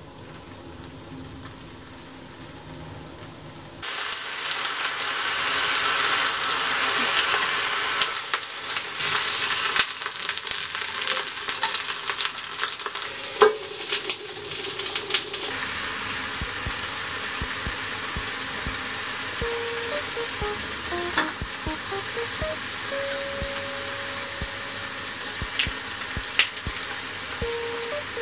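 Napa cabbage and bacon sizzling in an oiled frying pan, the sizzle starting suddenly about four seconds in. A clack about halfway through as a glass lid goes on, after which the sizzling carries on more softly under the lid.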